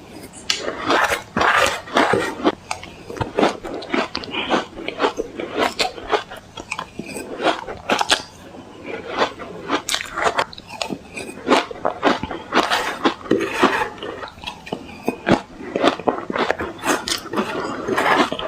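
Close-miked crunching of ice cubes being bitten and chewed, with a dense run of sharp, irregular cracks and crackles.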